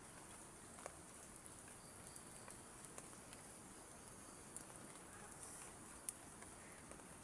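Light rain: a faint steady hiss with single drops ticking down every second or two, the sharpest about six seconds in.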